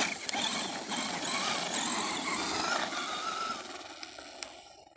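Electric motor of a Traxxas RC car running on a 2S battery, whining up and down in pitch with the throttle over a wet, gritty noise, then dying away near the end.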